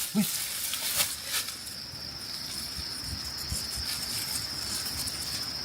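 A steady, high-pitched insect buzz that starts about a second and a half in and holds one even tone, with a few short rustling clicks before it.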